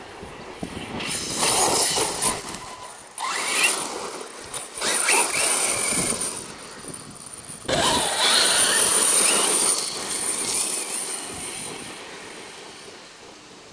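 Electric radio-controlled truck's brushless motor whining in repeated bursts of acceleration, its pitch rising and falling with each run, loudest about eight seconds in and fading toward the end.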